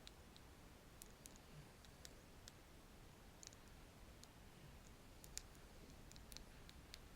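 Faint, irregular clicks and ticks from a paint brush being tapped and handled close to the microphone, with a slightly louder tick about five and a half seconds in.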